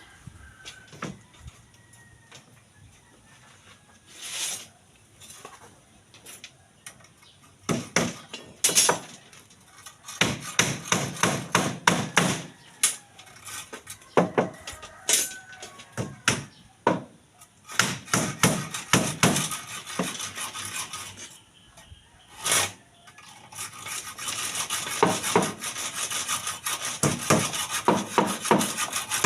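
Hammering in quick runs of sharp strikes, a few scattered blows at first, then steadier and denser toward the end.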